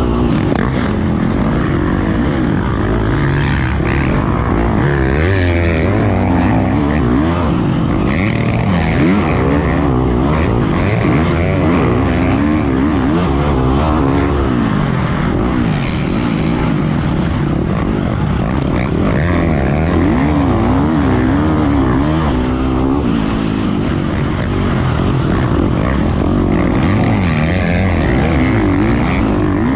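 Motocross dirt bike engine at race pace, revving up and down without a break, its pitch climbing and dropping over and over as the throttle is worked through the track's jumps and turns.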